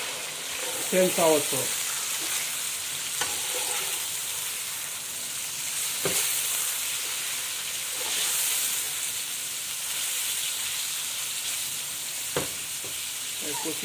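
Raw boneless chicken pieces sizzling in hot oil with fried onions in an aluminium wok-style pan, stirred with a metal spoon that knocks against the pan a few times.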